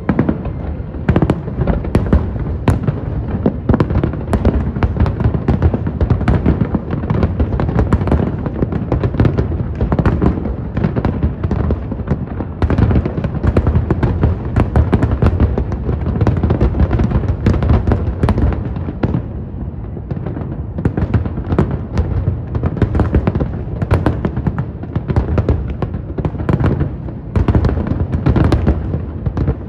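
Fireworks display: a dense, continuous barrage of shells bursting, with rapid sharp bangs and crackles, many each second, over a deep rumble.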